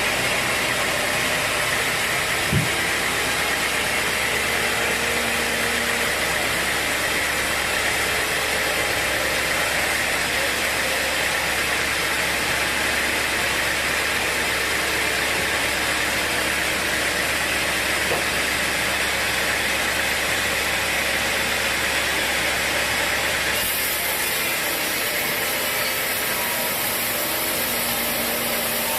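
Sawmill machinery running steadily with a constant noisy drone. A single sharp knock comes about two and a half seconds in.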